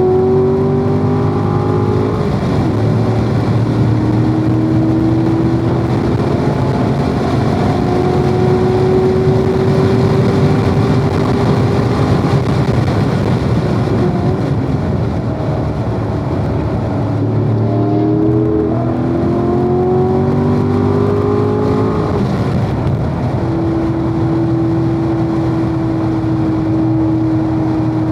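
Corvette V8 under hard acceleration, its pitch rising and dropping back at each upshift through the gears. It eases off briefly about halfway, pulls again through several quick upshifts, then holds a steady note near the end.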